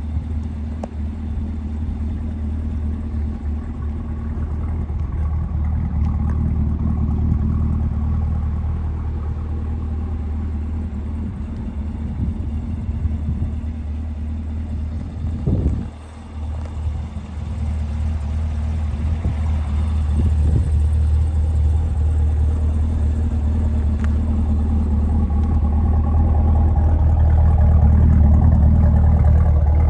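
2018 Chevrolet Camaro ZL1's 6.2-litre supercharged V8 idling steadily, growing louder near the end as it is heard close to the exhaust tips.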